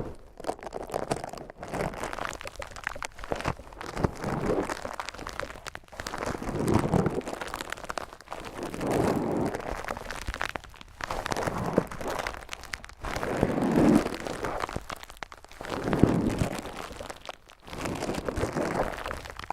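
Furry microphone wind muff rubbed roughly against the microphone, giving a coarse rustling scratch that swells and fades in slow strokes about every two seconds.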